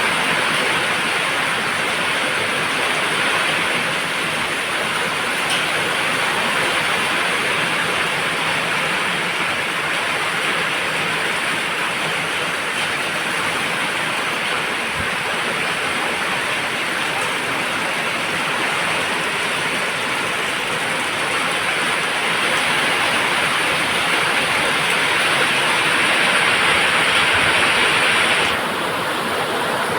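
Steady rain falling, a dense, even hiss that turns slightly quieter and duller near the end.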